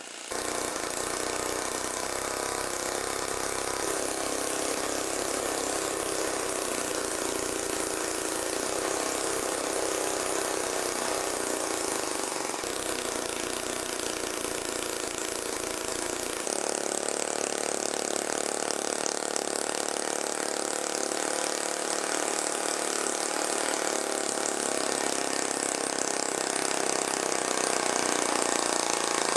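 Small engine built from a refrigerator compressor converted to run as a four-stroke engine, running steadily. Its sound changes abruptly about sixteen seconds in.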